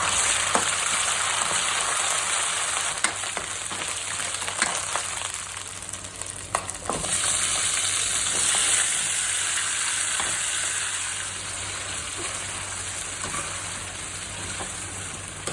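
Chicken and ginger garlic paste frying with a steady sizzle in a kadai as they are stirred, with a few sharp clicks of the spatula against the pan. The sizzle swells again about seven seconds in.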